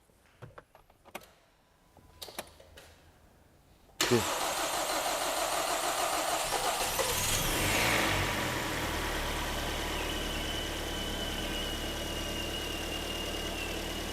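Freshly rebuilt Kia/Hyundai G4KD 2.0-litre four-cylinder petrol engine started for the first time after its overhaul: a few faint clicks, then it catches about four seconds in, revs up briefly and settles into a steady idle. Toward the end a faint high whistle comes in, which the mechanic puts down to the air-conditioning compressor.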